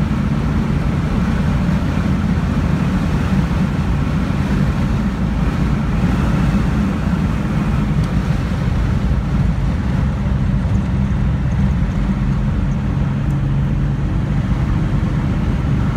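1969 Pontiac GTO's V8 engine pulling at a steady pace on a track lap, heard from inside the cabin, mixed with road and wind noise.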